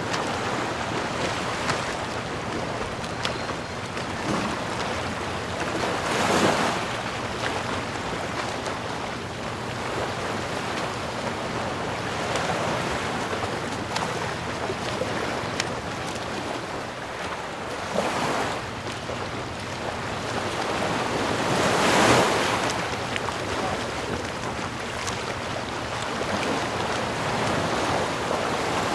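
Ocean surf: a steady wash of sea water, with waves breaking more loudly about six, eighteen and twenty-two seconds in.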